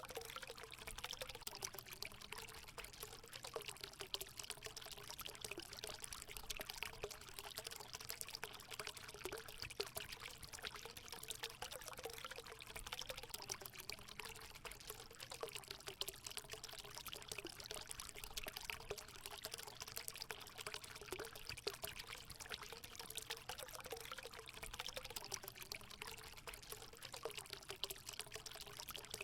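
Hot spring water steadily pouring and splashing into a pool, an even rushing hiss with a faint wavering gurgle underneath.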